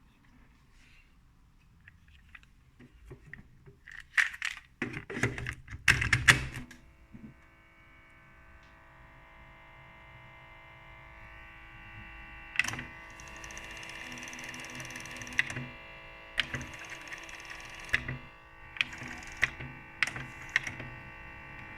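Fostex 280 cassette multitracker: a burst of clicks and clunks as the cassette is loaded and the transport keys are pressed, then a steady humming tone with several pitches from the running mechanism, broken by repeated sharp clicks of the keys. This is the strange noise the owner gets on play while the heads fail to engage.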